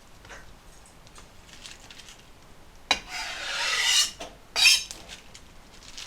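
Kitchen utensils and dishes being handled: a sharp click about three seconds in, then about a second of scraping that grows louder, then a short clatter.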